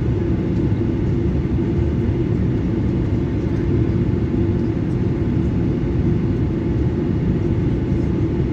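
Steady low rumble of engine and airflow noise inside the cabin of a Boeing 737-900ER with its CFM56-7B engines running.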